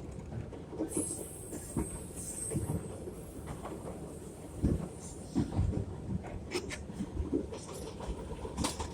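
R62A subway train running on the rails, with irregular low clacks and knocks from the wheels over rail joints. A high, thin squeal is heard from about a second in, lasting a little under two seconds.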